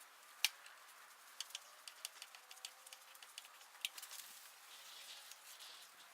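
A sharp click about half a second in, then an uneven scatter of lighter clicks and taps from hand tools and parts being handled during the repair, with a soft hiss near the end.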